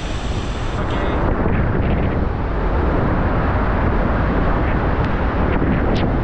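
Steady rushing roar of a powerful waterfall close by, with spray and wind buffeting the microphone.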